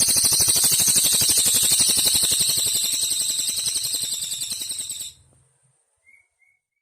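A cililin bird singing a long, fast, high trill of rapid repeated notes that fades a little and cuts off abruptly about five seconds in, followed by two faint short chirps in the pause.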